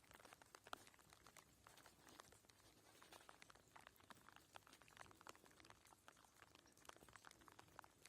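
Near silence with faint, irregular small ticks and crackles.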